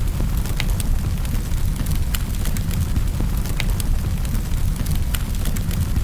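Wood fire in a fireplace: a steady low roar with frequent sharp crackles and pops scattered throughout.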